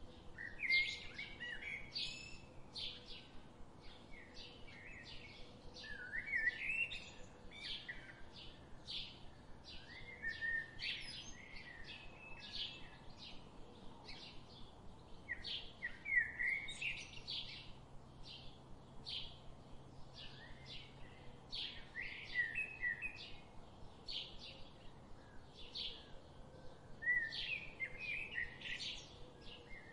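Birds singing: a steady run of short, sharp chirps, about two or three a second, with warbling phrases breaking in every few seconds.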